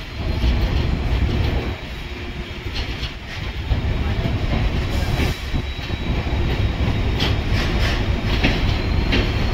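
Passenger train running into a station, heard from aboard a coach: a steady low rumble of wheels on rails with clickety-clack from the wheels crossing rail joints.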